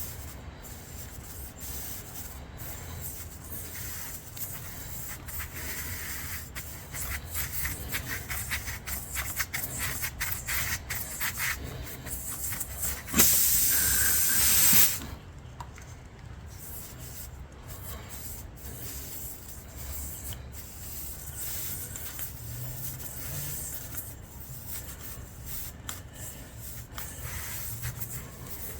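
Tyre-plug kit reamer rasping in and out of a motorcycle tyre's puncture hole, a run of scraping strokes as the hole is enlarged and smoothed. About halfway through there is a loud hiss lasting about two seconds.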